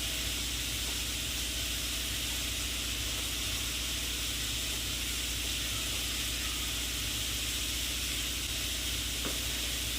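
Steady hiss of a pot of pulav cooking on the stove, with a constant low hum underneath.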